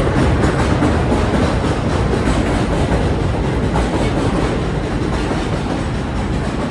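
Elevated subway train passing overhead, its wheels rumbling and clattering on the rails, the noise slowly easing off as it moves away.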